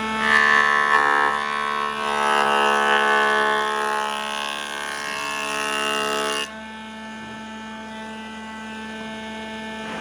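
Electric power tool motor running with a steady whine, with a rougher cutting noise on wood over it for the first two-thirds; the cutting noise then stops suddenly and the motor runs on more quietly.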